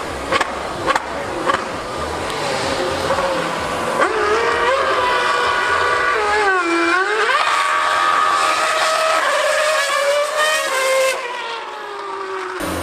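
High-revving racing engine at full throttle: the note dips sharply about two-thirds of the way through, then climbs again in steps before fading away.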